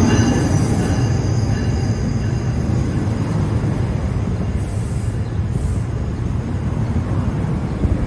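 NJ Transit train at a station platform: a steady, loud low rumble of the electric locomotive and coaches. A high whine fades out in the first second or so.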